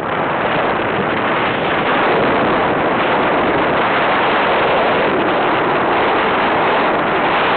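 Steady, loud rush of wind on the microphone of a motorcycle riding at speed, with no clear engine note above it.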